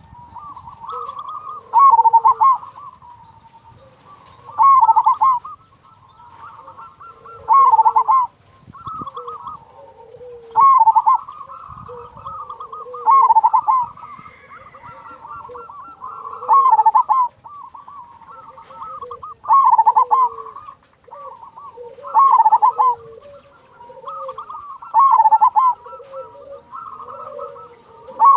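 Zebra doves (perkutut) cooing: a loud rolling coo phrase about every three seconds, with softer coos between them.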